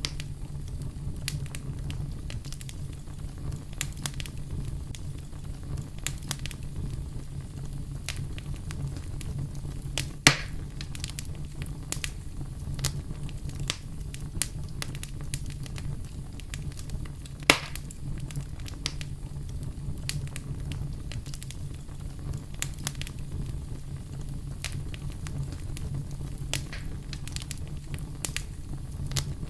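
Wood fire crackling steadily, many small pops and snaps over a low rumble, with two louder pops about ten seconds in and again a few seconds before two-thirds of the way through.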